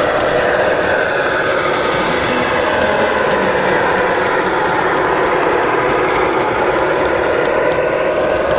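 Electric motors and gearboxes of 1/14-scale RC construction machines running, a steady mechanical whine with several tones that drift slowly up and down in pitch.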